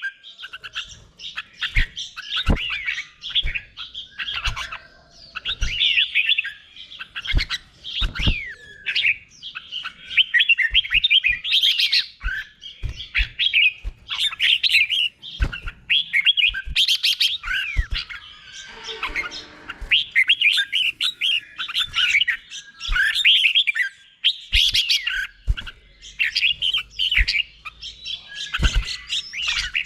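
Red-whiskered bulbul singing: quick, repeated warbled phrases, with sharp clicks in between. About two-thirds of the way through comes a single lower, harsher call.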